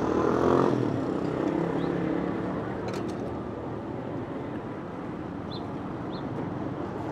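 Street ambience with traffic: a motor vehicle passes, loudest in the first second, over a steady hum of city noise. A sharp click comes about three seconds in, and a small bird chirps twice near the end.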